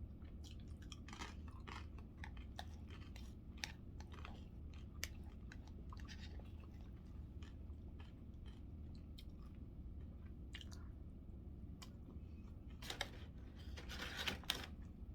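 A person chewing and biting food close to the microphone: soft mouth clicks and small crunches scattered throughout, with a louder run of crunching about thirteen seconds in.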